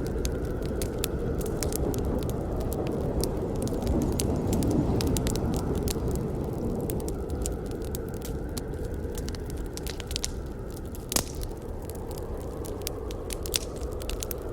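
Campfire burning: a steady low rush of flames under many small crackles and snaps, with one louder pop about eleven seconds in.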